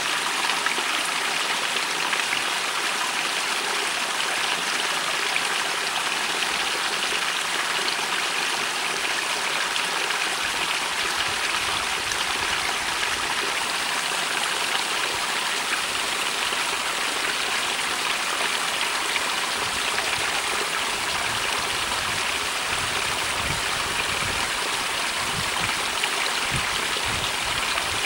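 A small stream running steadily through a rock cleft, a continuous rushing and trickling of water.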